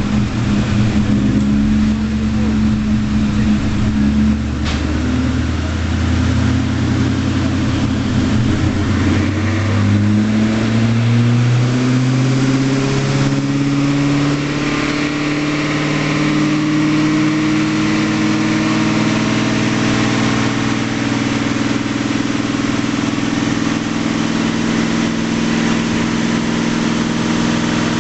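Twin-turbo Ford Mustang Cobra V8 running on a chassis dyno on race gas with fouled plugs. It runs at a steady low pitch at first, then the revs climb steadily for about twelve seconds before holding level.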